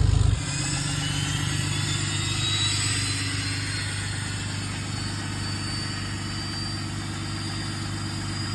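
Dodge diesel pickup engine running. About half a second in its deep, loud sound drops to a lighter, steadier run, and a high whistle rises in pitch over the following seconds.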